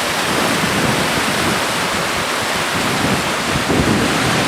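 Steady rushing noise of the Yakima River running in flood, with wind buffeting the microphone.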